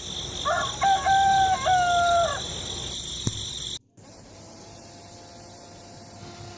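A rooster crows once, starting about half a second in and lasting under two seconds, over a steady high hiss. A few seconds later the sound cuts off abruptly, and a faint steady hum follows.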